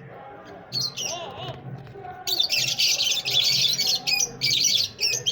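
Pet parrots chattering and squawking, a short warbling call about a second in, then dense, harsh high-pitched chatter in quick bursts from about two seconds in.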